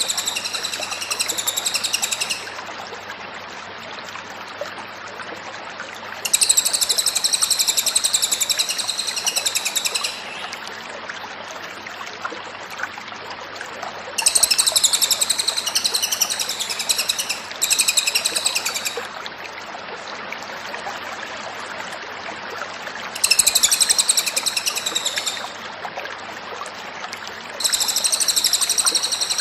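A cililin bird singing in loud, rapid chattering bouts high in pitch, each a few seconds long with short pauses between, five bouts in all. A steady hiss and low hum lie underneath.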